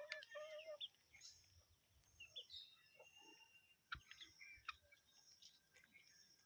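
Faint bird chirps and short whistled calls, scattered irregularly, with a few sharp clicks.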